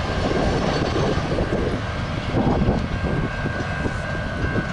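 Freight train passing close by: a steady, loud rumble of the rolling cars.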